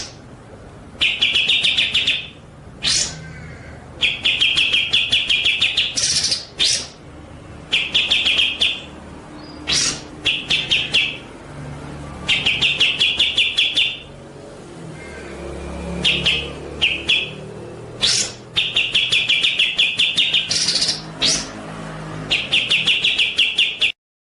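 A songbird singing repeated rapid trills, each about a second long, broken by sharp rising whistled notes. The song cuts off abruptly near the end.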